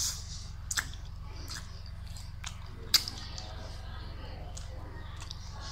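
Close-miked chewing of crispy fried chicken, with a few sharp crunches, the loudest about three seconds in. A steady low hum runs underneath.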